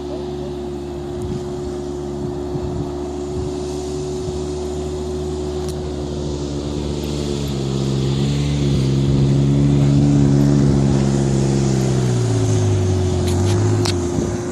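Off-road vehicle's engine under heavy load climbing a steep dirt hill. It runs steadily at first, revs up and grows louder about halfway through, then the revs drop away near the end.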